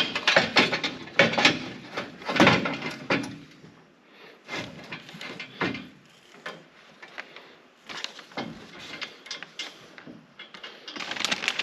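Clattering and knocking of metal parts and tools being handled in the engine bay, dense for the first three seconds, then sparser scattered knocks and scrapes.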